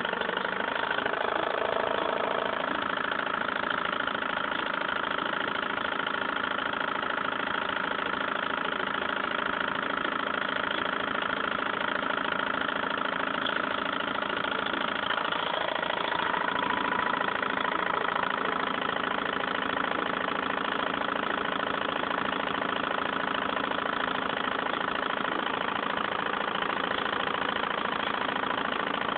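Stirling engine running steadily at an even speed, a continuous mechanical whir with a few steady tones in it.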